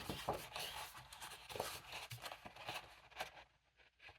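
Paper rustling and scraping as printed papers and cut-outs are handled and shuffled, in a quick run of short scratchy strokes that stops about three seconds in.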